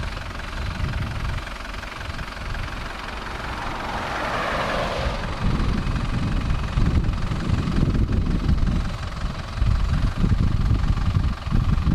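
Wind buffeting the microphone in uneven low gusts, heavier in the second half, with a vehicle rushing past about four to five seconds in.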